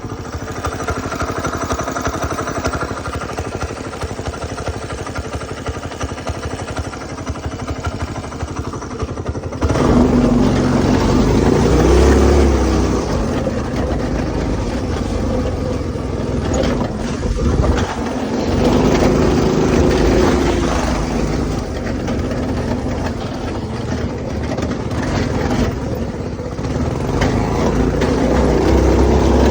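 Small go-kart engine, newly fitted with a 30 mm carburetor, running steadily at low speed. About ten seconds in it is throttled up and gets suddenly louder, then its pitch rises and falls several times as the throttle is opened and eased.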